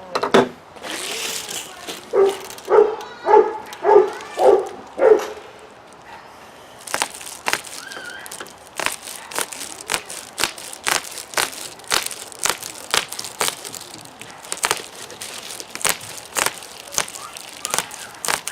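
A dog barks about six times in quick succession in the first few seconds. Then comes a long run of crinkling and sharp clicking as foil bubble-wrap insulation is cut and handled.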